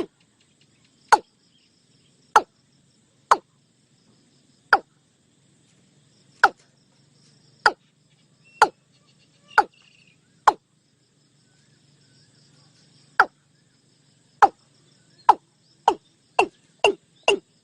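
Watercock calling: a series of short, sharp, falling 'tok' notes about one a second, pausing briefly after ten seconds, then quickening to about two a second near the end.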